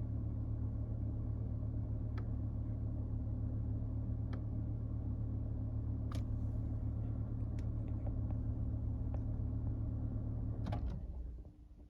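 2020 Suzuki Swift's 1.2-litre four-cylinder engine idling steadily, with a few light clicks every couple of seconds; near the end the engine is switched off and the hum stops.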